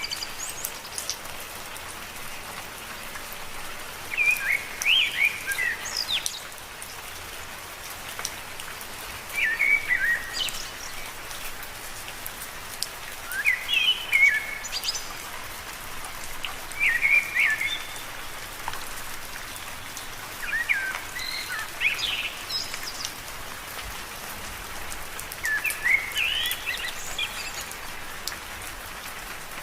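Steady rain pattering on leaves and surfaces, with scattered individual drops. Over it a bird repeats a short chirping phrase about every four seconds, seven times in all.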